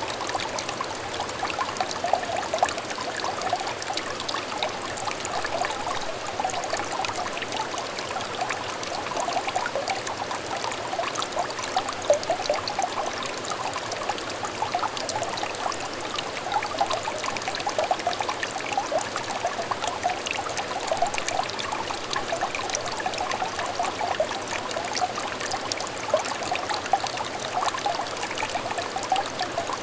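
Small stream of water trickling and babbling steadily over stones, with fine splashing and gurgling.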